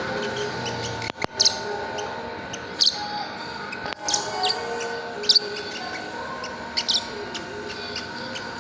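Lovebirds giving short, sharp high chirps about every second and a half, over a steady hum. Two clicks, about a second in and about four seconds in.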